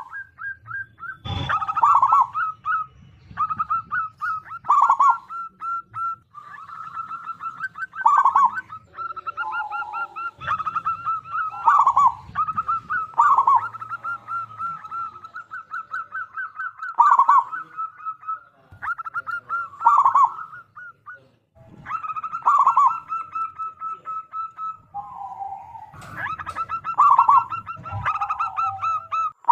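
Zebra dove cooing over and over: runs of fast stuttering notes, each phrase broken by a louder, lower falling coo every one to three seconds, with a brief pause about two-thirds of the way through.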